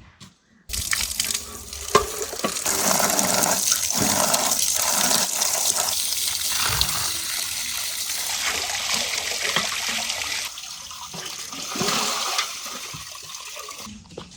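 Water running or pouring in a steady gush that starts suddenly about a second in and eases off in the last few seconds, with a few knocks mixed in.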